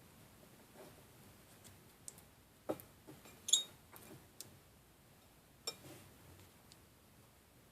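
A few light, separate clicks and taps of small objects being handled, one of them a brief high clink, over quiet room tone.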